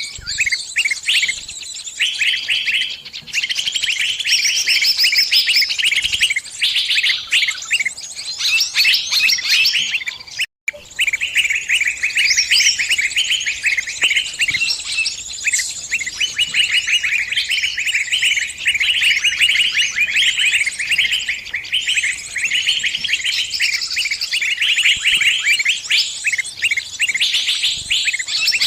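Small bird chirping rapidly and without pause in high, shrill notes: the distress calls of a trapped bird calling to other birds for help. The calling breaks off for an instant about ten seconds in.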